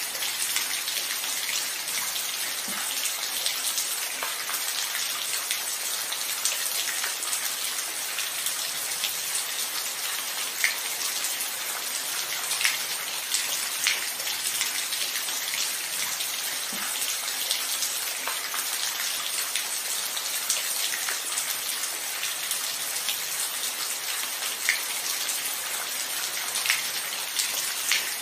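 Steady rain falling: a constant hiss with scattered louder drops ticking through it.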